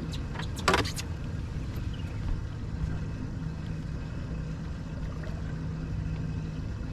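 Boat motor running steadily with a low rumble, a steady low hum holding for several seconds in the second half. A short sharp noise about a second in.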